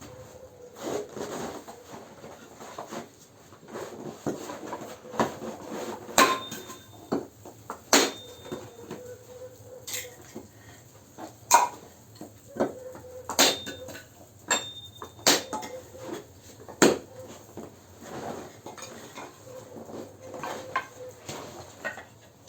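Campfire crackling: irregular sharp pops and snaps from the burning wood, the loudest every second or two.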